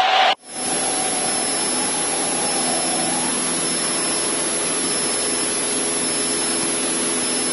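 Cessna 152's four-cylinder Lycoming engine and propeller droning steadily in level flight, as heard inside the cockpit. The sound cuts out briefly just after the start, then returns at a constant level.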